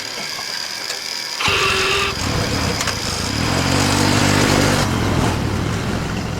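A motor vehicle's engine starts about a second and a half in and keeps running with a low rumble, getting louder toward the middle.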